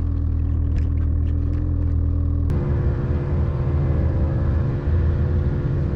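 Snowmobile engine running steadily under load. About two and a half seconds in, the sound changes abruptly to a louder, rougher engine note.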